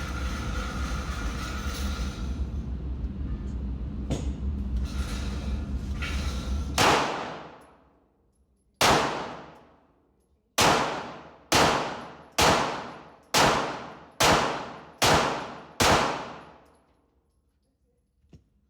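A steady low hum, then a handgun fired nine times: two single shots, then seven in a quick string about one a second, each shot ringing off over about a second.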